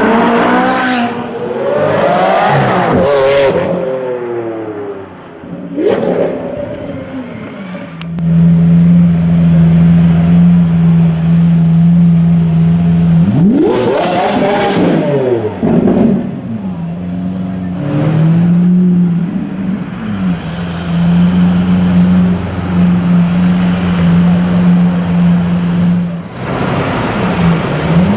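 Lamborghini supercar engines revving and accelerating hard through loud exhausts, the engine pitch sweeping up and down several times. From about eight seconds in, one engine holds a steady drone while others rev over it.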